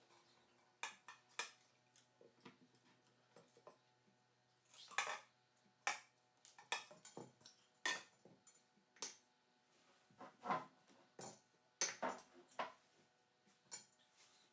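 Irregular clinks and knocks of dishes and cutlery being handled, a couple of dozen short sharp strikes at uneven intervals.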